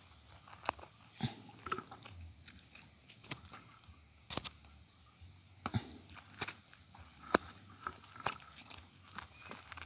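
Stones and gravel clicking and knocking together at irregular intervals as rocks are dug at and shifted by hand.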